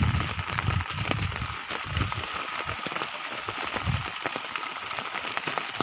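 Rain falling, an even patter with many single drop ticks. A few low dull thumps come through in the first four seconds.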